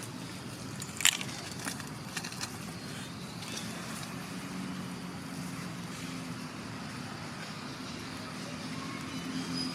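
A motor running steadily with a low hum, with a sharp click about a second in and a few lighter clicks after it.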